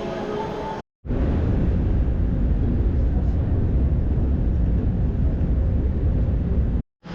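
Steady low rumble of a moving vehicle, heard as a separate clip that starts and stops abruptly after a brief silence.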